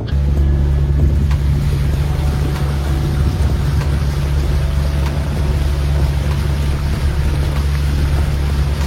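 Boat engine droning steadily while underway, a loud low hum with a haze of water and wind noise over it.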